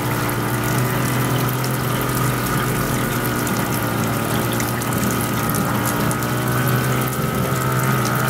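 Steady drone of engine and road noise inside a moving car's cabin, with a constant low hum.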